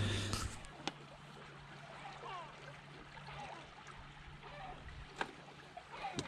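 Water trickling and gurgling among shoreline rocks, with a few sharp knocks about a second in and again near the end.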